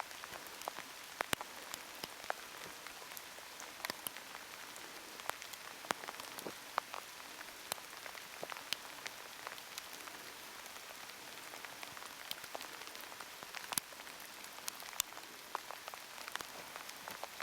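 Heavy rain falling steadily, with many sharp, irregular ticks of single drops striking close by.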